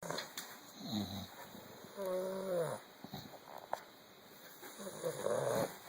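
Bulldog puppy snoring in its sleep: three rough, pitched breaths, the one about two seconds in with a whistling tone that drops in pitch as it ends.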